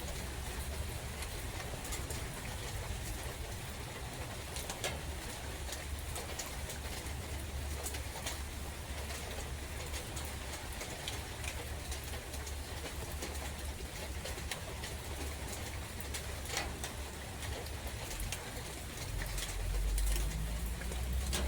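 Steady rain in a forest, with scattered louder drips, a low wind rumble, and a dove cooing.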